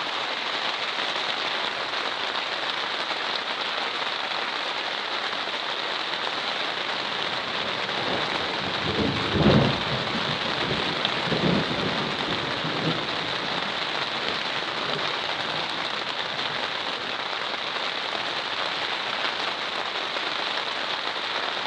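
Heavy rain falling steadily on the plastic cover of a polytunnel. About eight seconds in, a rumble of thunder rolls for a few seconds, loudest around the ninth or tenth second.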